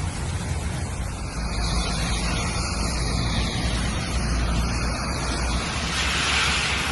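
Cars driving through heavy rain: a steady hiss of rain and tyres on the wet road over a low rumble of traffic, the hiss swelling near the end.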